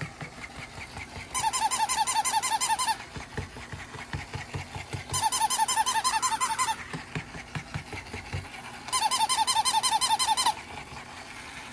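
Battery-powered interactive plush bunny toy playing its electronic rabbit sound: three bursts of rapid, high, squeaky chirps, each about a second and a half long, with a few faint low knocks in between.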